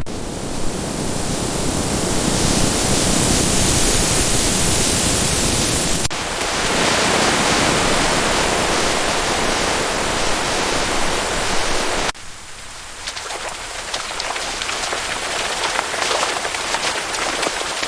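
Heavy rain falling, a steady hiss that changes abruptly twice, about six and twelve seconds in. The last stretch is quieter, with scattered drops pattering.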